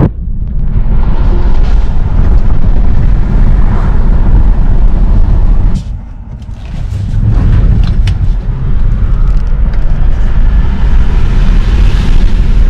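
Tesla electric car accelerating hard on the road: a loud, low rumble of tyre and wind noise, easing briefly about six seconds in before building again.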